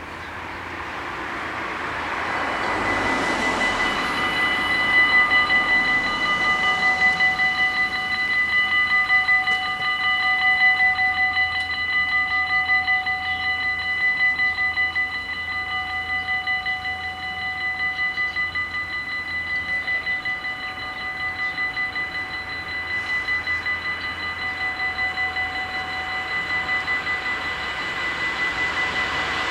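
Dutch AHOB level-crossing warning bells ringing rapidly and steadily, sounding the warning for an approaching train. A rushing noise swells and fades in the first few seconds.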